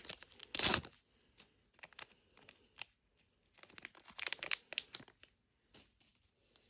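Small plastic packaging being torn open and crinkled by hand, with one loud tear just under a second in and a second run of crinkling crackles around four seconds in.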